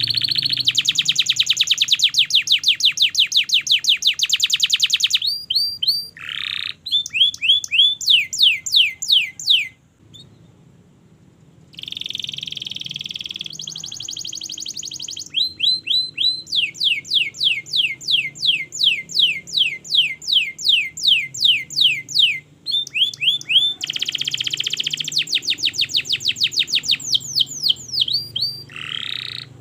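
Domestic canary singing a long song of rapid repeated trills and runs of falling whistled notes, the phrases changing every few seconds. It pauses for about two seconds a third of the way through, then sings on.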